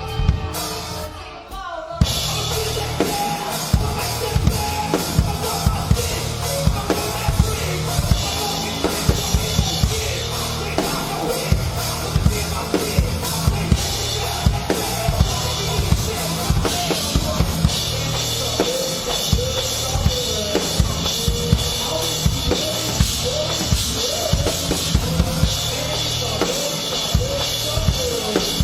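A live band playing a song with a close-miked drum kit loud in the mix: kick drum, snare and cymbal hits. After a brief lull about two seconds in, the full band comes in all at once.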